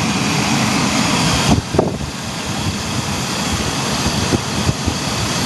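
Chevy Astro engine idling steadily, with a sharp click about one and a half seconds in.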